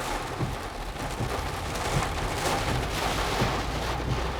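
Heavy rain pelting a moving car, heard from inside the cabin, over a steady low hum of the engine and road.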